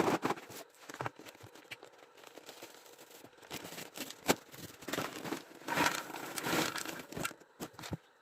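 Paper microwave popcorn bag crinkling and tearing as it is handled and opened, with scattered sharp clicks and a longer rustle past the middle.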